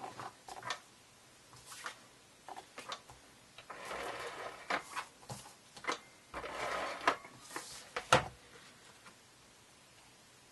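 Paper and cardstock being handled as a die-cut layer is stuck down onto a card: light scattered taps and clicks, two longer rustles about four and seven seconds in, and one sharp tap about eight seconds in.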